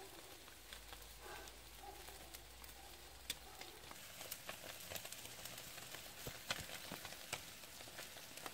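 Fish sizzling faintly on a grill over fireplace embers, with scattered small crackles and pops.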